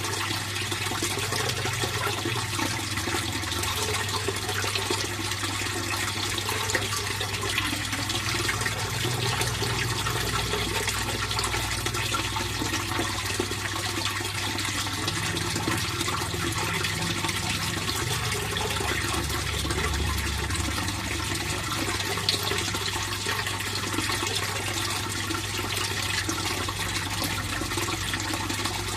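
Fish pond water flowing and splashing steadily, a continuous even rush of water with no pauses.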